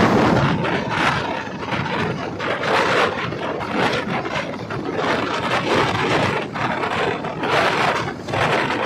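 Loud noise of a moving train, an even rush with swells and rattle.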